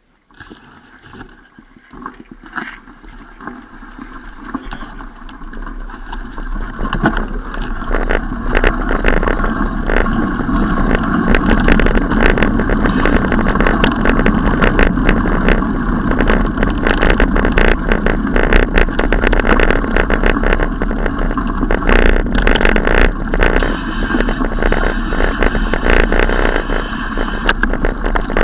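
Riding noise from a moving bicycle: wind on the microphone and rolling rumble, with frequent clicks and rattles. It builds over the first several seconds as speed picks up, then holds steady.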